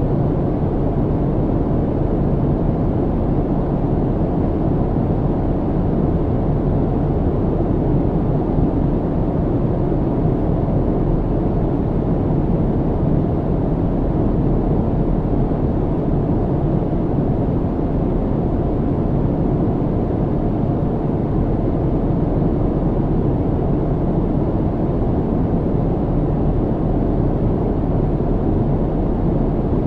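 Steady low rumble of an airplane cabin in flight: engine and airflow noise heard from inside, even and unchanging.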